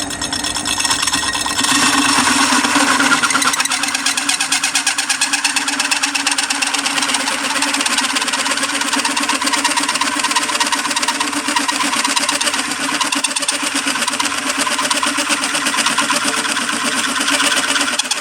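Drill turning a hole cutter through a metal plate, the cutter's teeth rasping and chattering steadily over the drill motor's hum. The cut bites harder about a second and a half in and stays loud after that.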